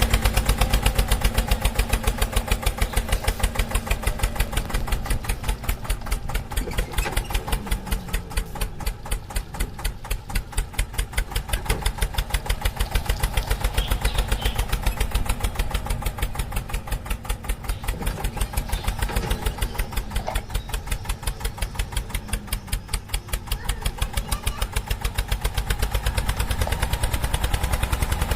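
Tractor engine running steadily, its firing beat heard as a fast, even pulse with a heavy low end.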